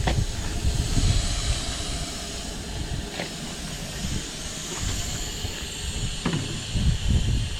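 Air hissing steadily out of a semi truck tire through its open valve stem, the valve core removed to deflate it, over a low rumble and a few faint clicks.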